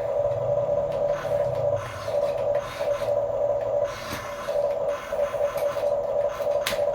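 Small electric motors and plastic gearboxes of a remote-control toy construction vehicle whining in short bursts that stop and start, with a few light clicks.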